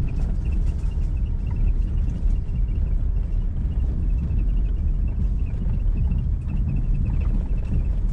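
Four-wheel drive vehicle driving slowly along a dirt bush track: a steady low rumble of engine and tyres.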